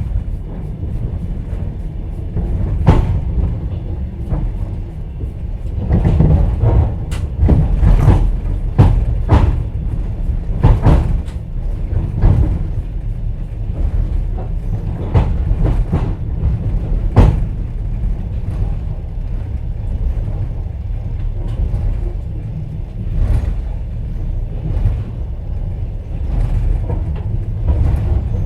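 Inside a passenger train's sleeper carriage: a steady low rumble of the train running, with the wheels clacking over rail joints and the carriage knocking and rattling at irregular intervals, in clusters for several seconds at a time.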